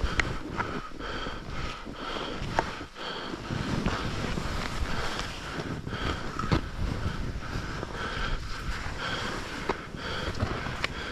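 Wind rushing over the microphone while skiing downhill, with skis hissing through the snow in swells about once a second as they turn, and a few sharp clicks.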